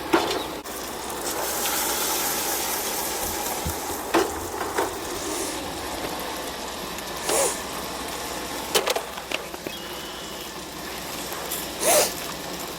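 Breaded fish fillets frying in melted butter in a pan, sizzling steadily, with a few short sharp knocks or clinks scattered through.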